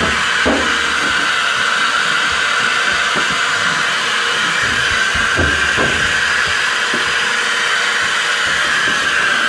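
Dirt Devil Reach Max Plus cordless stick vacuum running steadily with a constant high whine and hiss, while its suction fails to pick up the mess.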